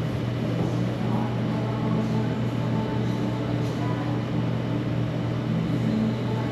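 Restaurant ambience: a steady low hum under faint background music.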